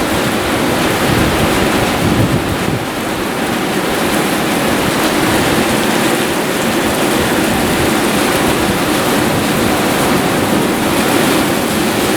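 Heavy thunderstorm downpour: a steady, dense rush of rain pouring down.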